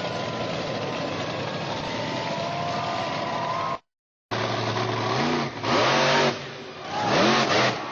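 Monster truck engine running, then, after the sound cuts out for half a second, revved up and let back down twice.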